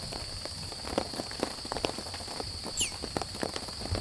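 Heavy rain falling, with many irregular sharp drop hits over a steady hiss.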